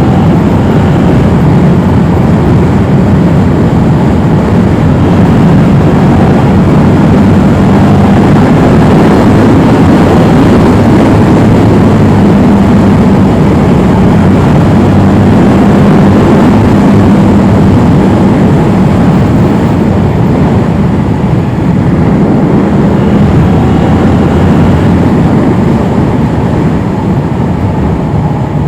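Yamaha R7 motorcycle being ridden: its parallel-twin engine runs steadily under way beneath a loud, even rush of riding noise.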